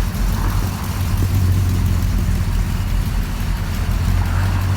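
Classic car engine running with a steady, deep low rumble as the car moves off slowly.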